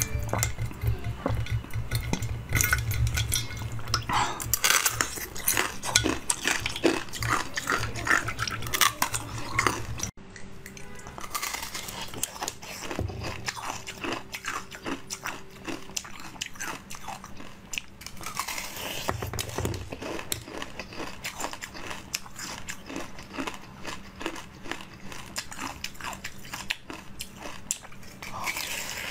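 Close-up biting and chewing of frozen jelly treats: crisp, crackling crunches in quick succession. About ten seconds in there is a cut, after which the crunching is lighter.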